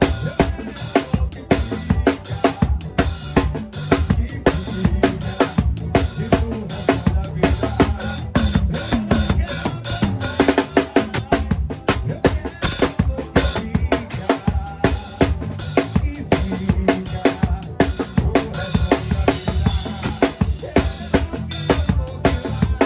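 Drum kit played along to a forró backing track: a fast, steady beat of bass drum, snare and rimshots over the music.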